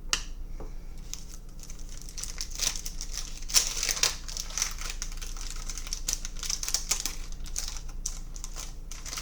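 Foil wrapper of a Panini Prizm football card pack crinkling as it is torn open and handled, with a burst of denser crackling a few seconds in.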